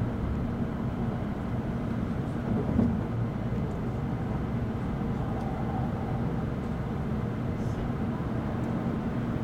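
Steady running noise inside the passenger cabin of an N700 series Shinkansen: an even low rumble with a faint hum underneath, with no change in level.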